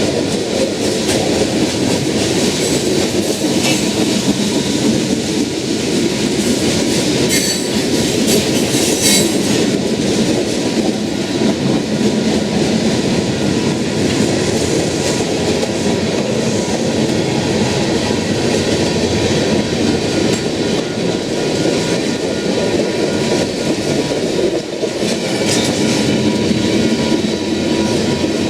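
Freight train cars rolling past at track level in a steady, loud rumble, with wheels clicking over the rail joints.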